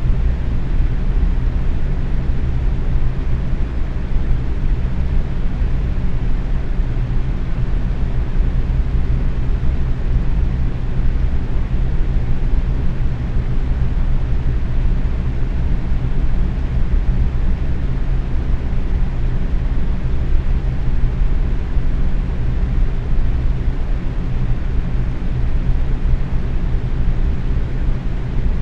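Box fan running steadily at medium speed: an even whooshing airflow with a low motor hum.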